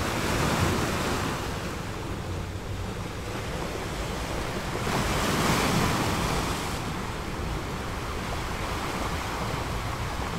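A steady rushing noise with no tones, swelling about half a second in and again around five seconds in.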